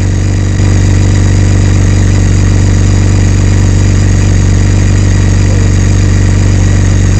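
BMW K1600 motorcycle's inline six-cylinder engine idling steadily, getting slightly louder about half a second in.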